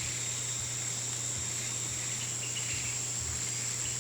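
Insects chirring in a steady, high, even drone over a low steady hum.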